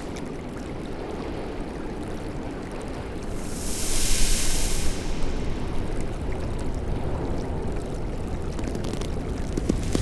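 Sound-design ambience of rushing water, a steady wash with a louder hissing surge about four seconds in, like a wave or a rush of current.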